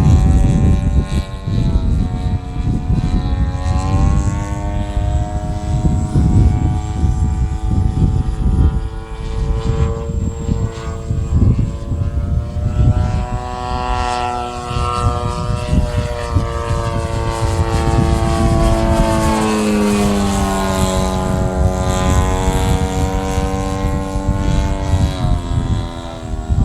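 Model aircraft engine and propeller of an RC 'Ultimate' biplane in flight, running continuously with its pitch rising and falling as the throttle changes and the plane passes, with a clear drop in pitch about two-thirds of the way through.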